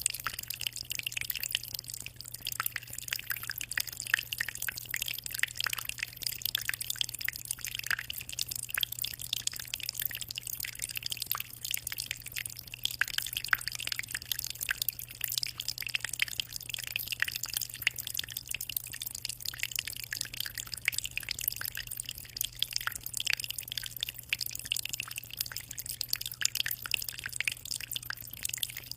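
Aquarium water trickling and splashing continuously as many small, close-set drips and splashes, over a steady low hum.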